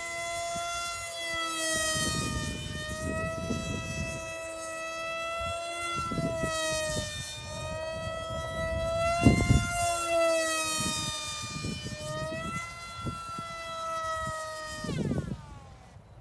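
ParkZone Stryker RC flying wing's electric motor and propeller whining in flight. The pitch rises at the start, wavers up and down, and drops away about a second before the end. Gusts of wind buffet the microphone underneath.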